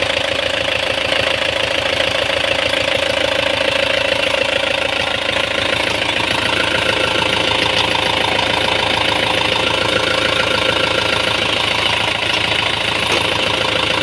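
Kubota M9540 tractor's freshly rebuilt four-cylinder diesel engine running steadily.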